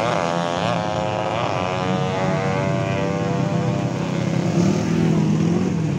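Drag-racing motorcycle engine revved in three quick throttle blips, then running on steadily at a lower speed.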